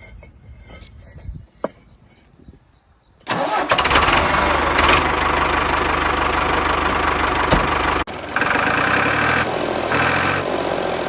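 A motor starts abruptly about three seconds in and runs loudly and steadily, cutting out briefly around eight seconds before running on, after a few light clicks.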